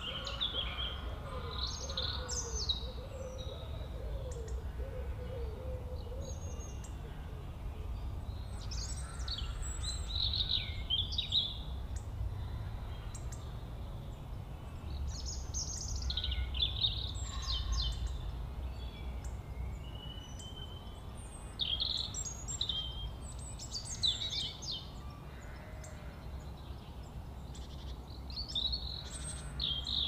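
Small birds calling and singing in short, high-pitched phrases that come and go throughout, over a low steady rumble.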